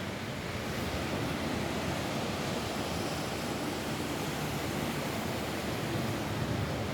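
Steady rain falling on a roof, an even hiss that holds at one level throughout.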